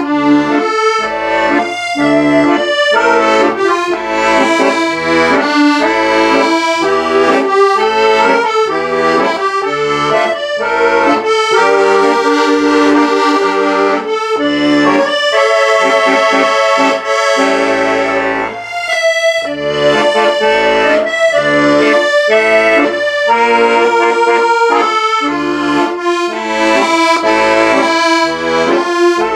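Accordion music: a melody played over a steady pulsing bass accompaniment, with a brief break about two-thirds of the way through.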